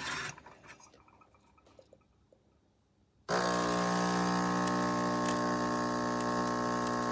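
Near silence for about three seconds, then the MIROX espresso machine's pump switches on suddenly and runs with a steady hum, brewing the two-cup setting.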